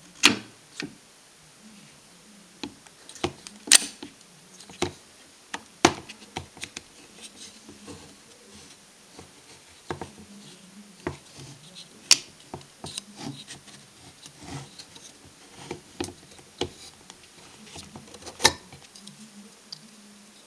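Hands working on a car's electric door latch: scattered clicks, taps and knocks of small hard parts being handled, with a few sharper, louder knocks among them.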